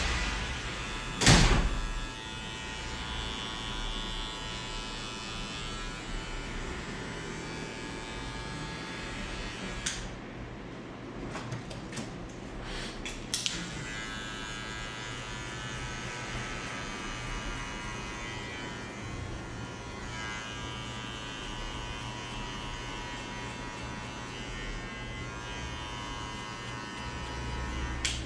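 Electric hair clippers running with a steady buzz as they cut a fade. There is a sharp knock about a second in and a few light clicks midway.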